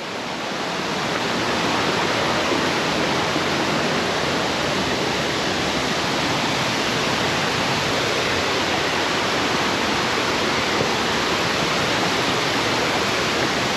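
Waterfall rushing: a steady hiss of falling water that swells over the first second or so and then holds even. The falls are running full after rain.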